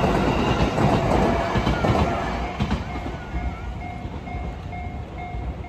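Electric commuter train passing over a level crossing, its rumble loud for about two seconds and then fading away. From about halfway on, the crossing's warning bell is heard ringing in a steady, evenly spaced ding about twice a second.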